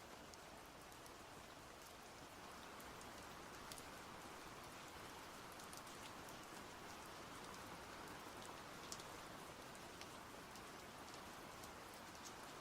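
Faint, steady rain, with many individual drops ticking through it.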